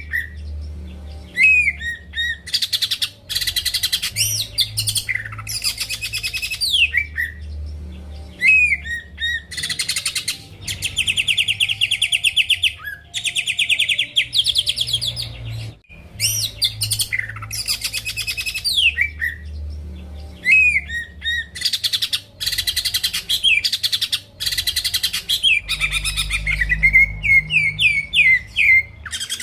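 Green leafbird (cucak ijo) singing continuously in full song: fast trilled phrases alternate with sharp downward-slurred whistles, with a brief break about halfway through. A low hum runs underneath.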